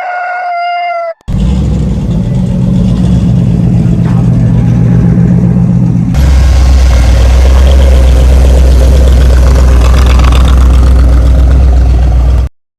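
A rooster's crow ends about a second in. Then a car engine comes in suddenly, running loud and steady. About six seconds in it steps up to a louder, heavier revving run, and it cuts off abruptly near the end.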